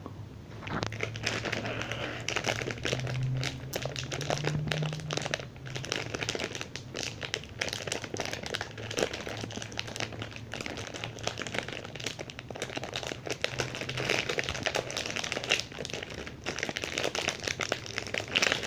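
Packaging of a Gardenia banana muffin being handled and opened, crackling continuously with many small clicks and rustles.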